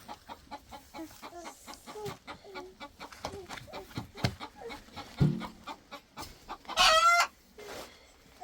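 Chickens clucking in quick short notes, with a thump about five seconds in and one loud, high squawk near the end.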